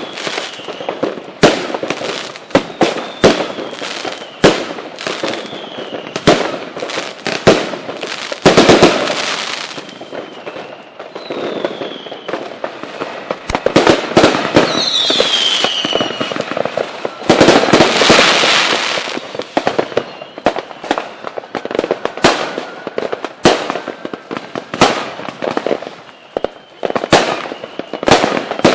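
Fireworks display: many sharp bangs in quick succession, with a few stretches of dense crackling and several faint falling whistles.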